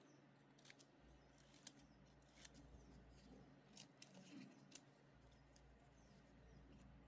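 Faint, scattered sharp clicks and light handling noises, about seven or eight in all, over a low hum.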